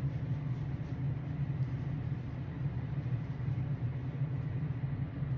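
A steady low mechanical hum that stays even throughout.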